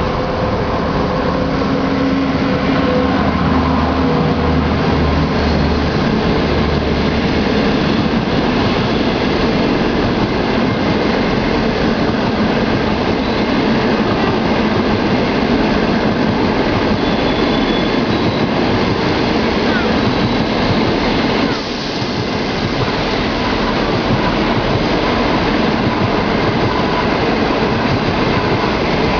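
Passenger train of coaches rolling past on the rails, a steady loud rumble of wheels and running gear, with a low hum in the first several seconds and a brief dip about 21 seconds in.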